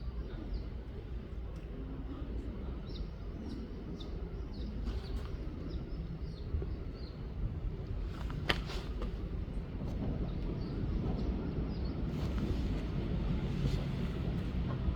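Outdoor ambience by a stream: a steady low rumble, with short high bird chirps repeating through the first half and a single sharp click about eight and a half seconds in.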